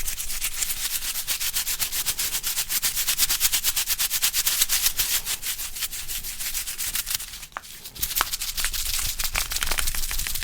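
Foil electrolyte-powder sachets shaken fast and hard close to the microphone, giving a rapid, even, crisp rattling rustle. It breaks off briefly about three quarters of the way through, then resumes more sparsely.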